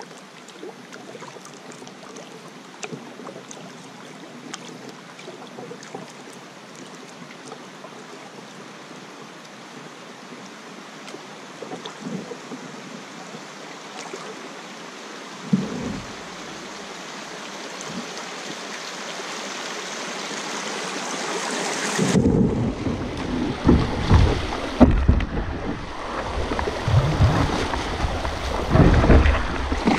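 Steady rush of flowing river water, growing slowly louder. About two-thirds through it changes abruptly to louder, uneven wind buffeting on the microphone with splashing water.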